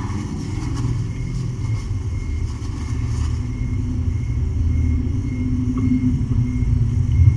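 A domestic cat purring close to the microphone: a steady, pulsing low rumble that grows slowly louder toward the end.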